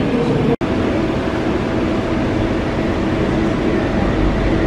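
Steady running noise inside a BTS SkyTrain car moving along the elevated track, with a low rumble building near the end. The sound drops out for an instant about half a second in.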